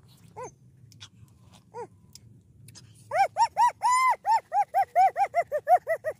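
An animal's high yelping calls: two single yelps, then from about halfway a rapid run of yelps, about four or five a second.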